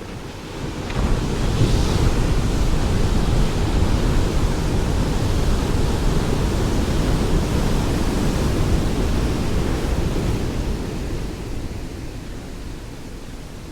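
Ocean waves: a wave swells about a second in, its rushing surf holding strong for several seconds before slowly fading.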